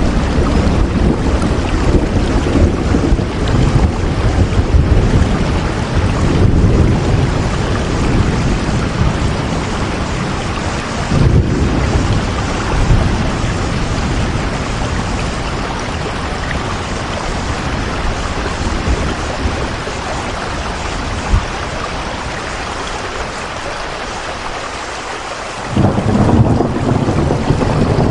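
Heavy rain falling steadily, with deep rumbling swells underneath. The rumble dies away through the middle and comes back suddenly near the end.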